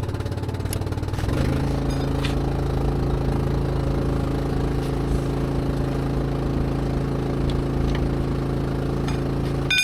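An engine starts up, climbing in pitch over the first second or so, then settles into steady, even running. A brief ringing click comes near the end.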